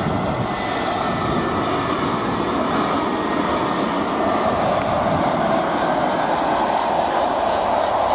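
Jet engines of an easyJet Airbus A320-family airliner, heard as a steady rush of engine noise that grows a little louder about halfway through.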